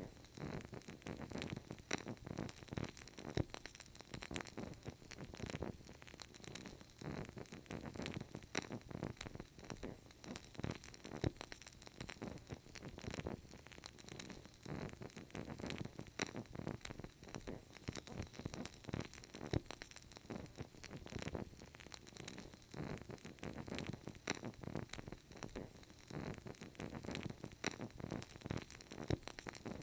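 A burning candle crackling: quick, irregular small clicks and pops over a soft, steady hiss.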